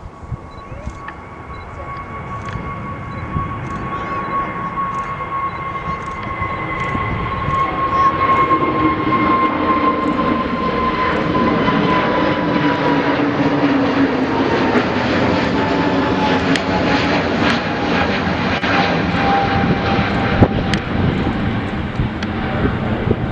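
Jet airliner passing by. It grows louder over the first eight seconds or so, then holds, and its engine whine slides slowly down in pitch as it goes past.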